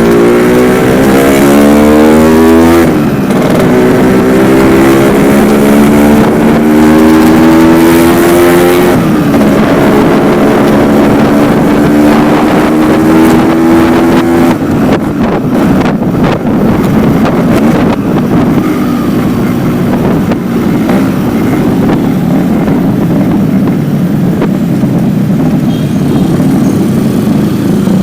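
Yamaha RX-King two-stroke single-cylinder motorcycle through its stock silencer with only the baffle fitted, accelerating up through the gears: the exhaust note climbs in pitch, drops at shifts about three and nine seconds in, and climbs again. From about halfway the clear note gives way to a rough, noisy steady run.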